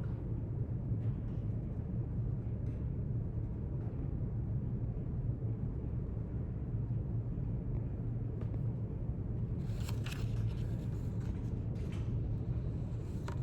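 Steady low rumble of a quiet library's room ambience, with a few faint brief rustles, like paper or a pen, about ten seconds in and near the end.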